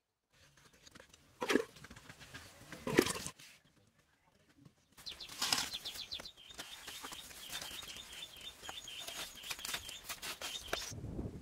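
Two sharp slaps about one and a half and three seconds in. Then a bird chirps over and over, several short high calls a second, over soft handling sounds of wet mud.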